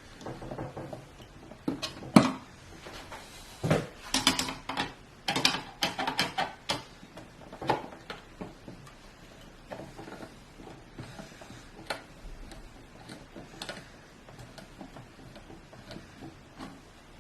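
Irregular clicks, taps and clatter of small hard computer parts and screws being handled and fitted during a PC build. The loudest knocks bunch in the first seven seconds, and lighter scattered clicks follow.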